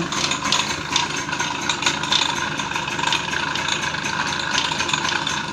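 TVS XL Super moped engine idling with a dense, steady rattle from the clutch. This is clutch noise from running with no oil in the clutch: the clutch shoe's top plate is knocking against the clutch bell without lubrication.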